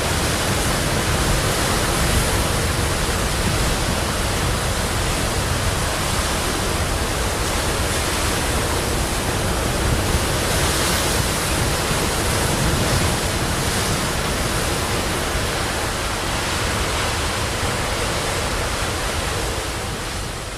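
Sea surf: waves breaking in a continuous, steady rush with slight swells.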